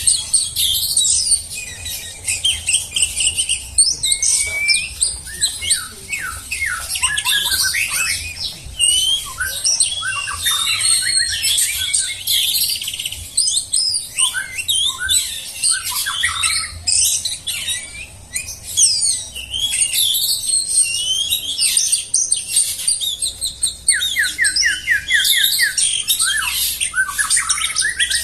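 Songbird singing a long, varied song of rapid whistles, chirps and harsh squawky notes, with a fast, even trill late on.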